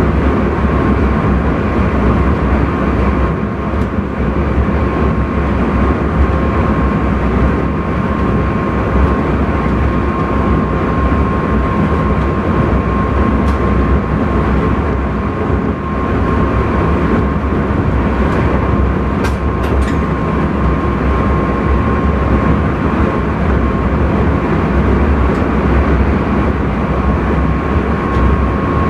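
Intercity train running along the track, heard inside the driver's cab: a steady rumble of wheels and running gear with a constant high hum over it. There are a few faint clicks about two-thirds of the way through.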